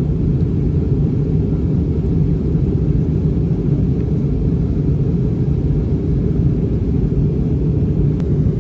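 Steady low rumble of an airliner cabin in flight: jet engine and airflow noise, even and unchanging.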